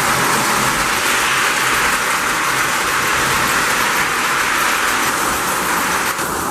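Lionel postwar #746 J-class O-gauge steam locomotive and its train running steadily on the track: a continuous whir of the electric motor and the wheels on the rails.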